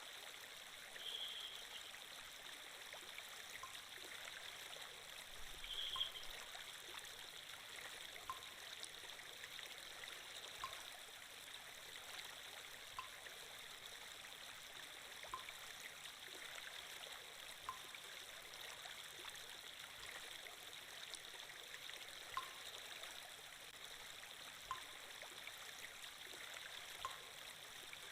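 Flowing-water sound effect: a steady, quiet stream or trickle, with a faint short tick about every two seconds.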